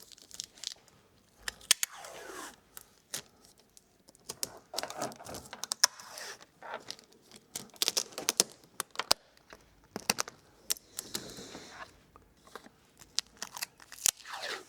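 Adhesive tape being pulled off the roll, torn and pressed down, in short ripping pulls with sharp clicks and crinkling between them.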